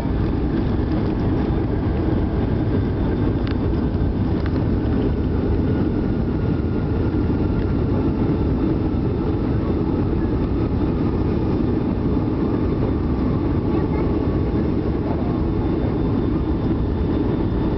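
Loud, steady cabin noise inside a Boeing 757-200 decelerating on the runway after touchdown: engine and airflow rumble, with a faint engine whine slowly falling in pitch as the engines spool down.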